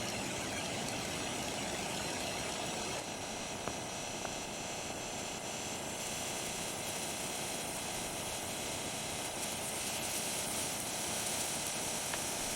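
Steady sizzling of kavurma and eggs frying in a cast-iron pan over a wood fire, with a few faint ticks and pops.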